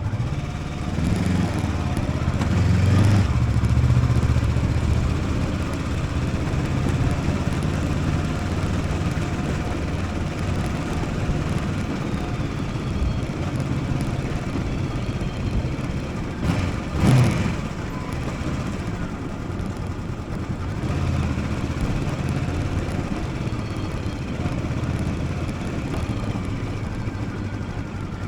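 Motorcycle engine running on the move, its note strengthening and easing as the throttle changes, with one short, louder burst about two-thirds of the way through.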